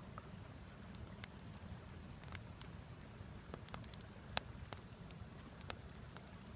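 Wood fire crackling: irregular sharp pops and snaps over a low steady rumble, with one louder pop a little past halfway.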